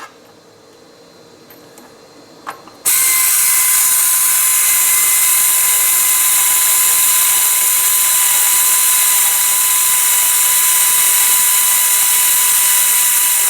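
A power ratchet runs continuously with a steady high whine and hiss. It starts about three seconds in and cuts off abruptly near the end, spinning nuts on loosely during reassembly of the CVT clutch housing. A few light tool clicks come before it.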